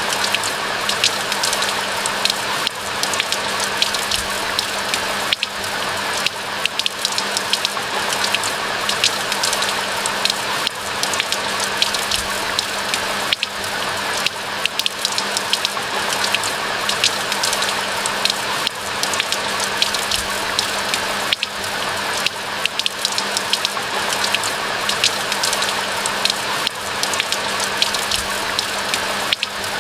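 Steady rain falling, a dense patter of close individual drops over an even wash of rain noise, with a faint steady low hum underneath.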